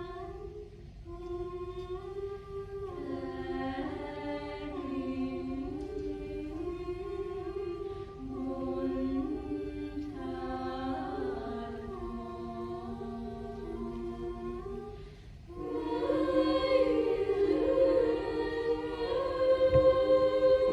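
Choir singing in several-part harmony, the voices holding long notes and moving together step by step, growing louder about three-quarters of the way in.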